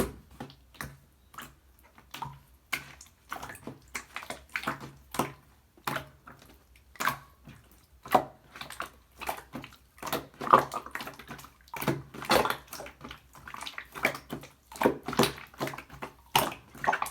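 Clear slime being squished and pressed by hand, making irregular wet clicks and pops, a few a second.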